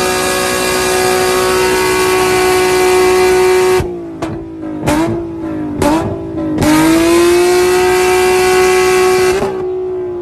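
Car engine revved and held at a steady high pitch with exhaust noise, then blipped three times in quick succession, held high again, and falling away as the revs drop near the end.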